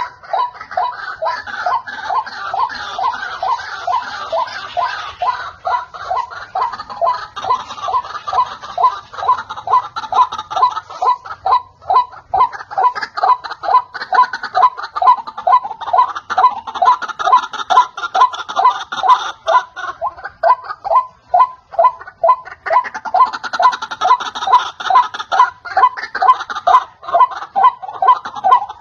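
White-breasted waterhen (ruak-ruak) calling: a loud, fast, unbroken series of repeated harsh 'ruwak-ruwak' notes, dipping briefly about twelve seconds in.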